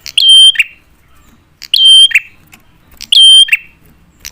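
Prenjak (prinia) calling three times, about a second and a half apart. Each call is a loud, sharp, buzzy note with a steady high tone, about half a second long.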